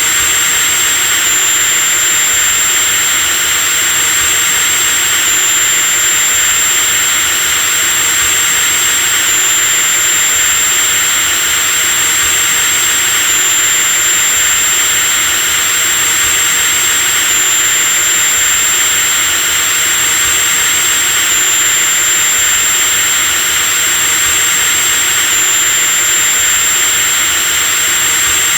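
Electric power drill running continuously at steady speed: a dense whirring motor noise with a high-pitched whine that steps slightly in pitch about every four seconds.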